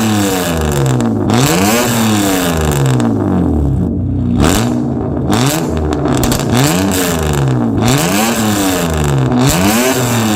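BMW E39 528i's 2.8-litre straight-six revved repeatedly through a loud 'Racing Only' aftermarket catback exhaust, the pitch climbing and dropping about seven or eight times in a steady rhythm of free-revs.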